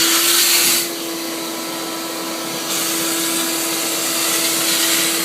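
Vacuum cleaner running, a steady motor hum under a rush of air. The airflow noise drops back just under a second in and grows louder again a little under three seconds in.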